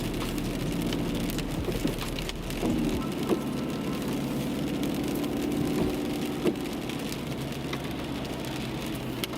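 Rain falling on a car driving uphill, with the engine's steady hum underneath and a few sharp taps from drops.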